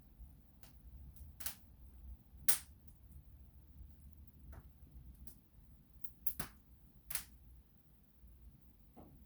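Wood fire crackling in a fireplace: irregular sharp pops and snaps over a low steady rumble, the loudest pop about two and a half seconds in.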